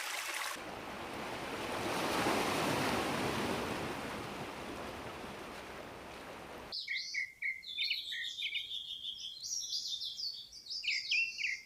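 Rushing water, a steady hiss that swells and fades, cuts off abruptly about two thirds of the way in and is replaced by small birds chirping and singing, many quick overlapping notes.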